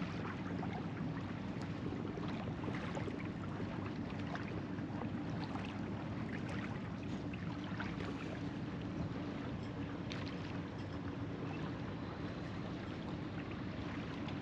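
Steady low drone and light water wash of a small sailboat under way in near-calm water, most likely motoring with its engine.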